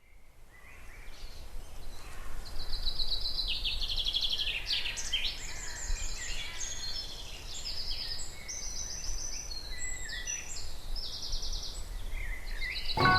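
Several woodland birds singing at once, overlapping trills and repeated phrases, fading in from silence over the first couple of seconds, over a faint low rumble.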